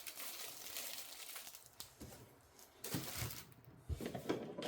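Packaging rustling as kit parts are handled and unpacked, followed by a few light knocks about three and four seconds in.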